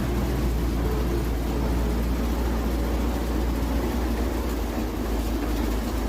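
Engine of a small 2 ft gauge Plymouth locomotive running with a steady low rumble; the rumble strengthens just as the sound begins.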